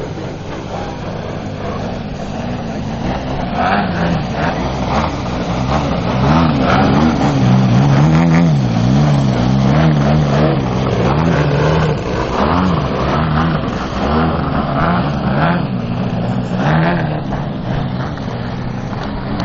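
Two large-scale Krill Extra 330SC aerobatic model airplanes flying in formation, their engines running loudly with a pitch that rises and falls as they manoeuvre and pass by, loudest around the middle.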